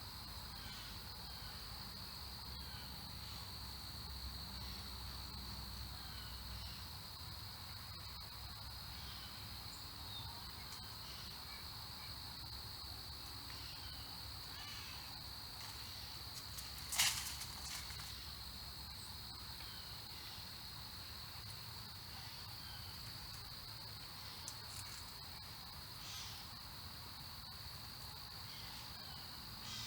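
Steady, high-pitched drone of an insect chorus, with faint scattered bird chirps and one sharp click about seventeen seconds in.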